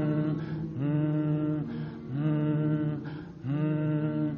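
Vocal toning in a sound meditation: a low voice sounds a chanted, mantra-like tone in steady held notes of about a second each, with short breaks between them, three times over.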